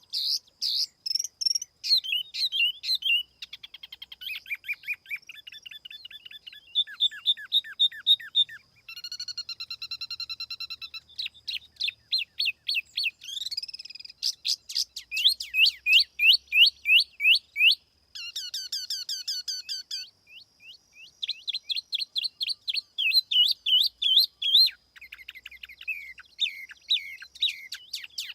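A tiểu mi songbird singing a lure song: fast runs of short, downward-sweeping high whistled notes and trills, in varied phrases separated by brief pauses.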